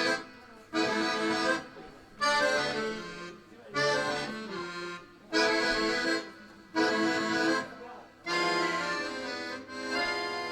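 Instrumental song introduction: a slow series of sustained chords on a reed or keyboard-like instrument. A new chord starts about every second and a half and fades before the next.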